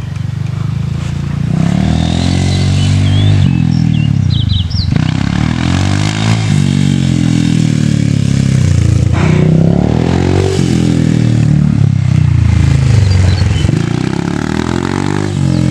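Small dirt bike engine revving up and easing off over and over, its pitch climbing and dropping several times, as a beginner rides it in a low gear without shifting properly.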